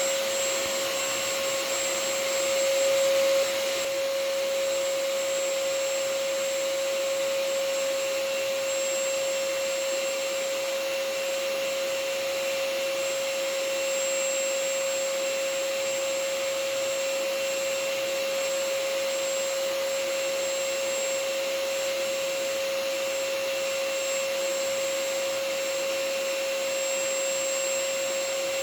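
Vacuum cleaner running steadily: a continuous rushing hiss with a steady whine, a little louder for a moment about two seconds in.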